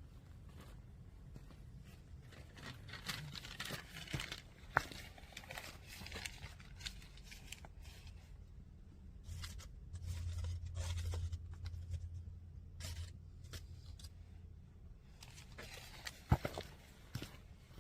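Irregular crackling and rustling of dry kindling and paper, with a few sharp snaps, one about five seconds in and another near the end. A low rumble comes in for a couple of seconds in the middle.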